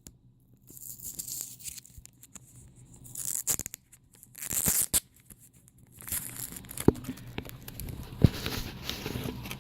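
Sealed packaging being handled and torn open by hand, crinkling and tearing in short bursts, with a couple of sharp knocks near the end.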